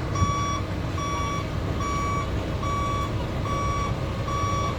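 Backup alarm on a heavy vehicle or machine beeping steadily, a short high beep roughly every 0.8 seconds, six times. A diesel engine is running underneath.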